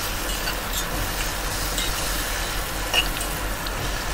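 Butternut squash and fried onion sizzling in a small pot while a metal spoon stirs them, with light scrapes of the spoon against the pot and one sharper click about three seconds in.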